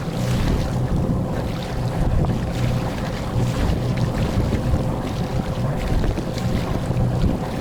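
A sailboat's engine running steadily with a low hum, under wind rushing across the microphone.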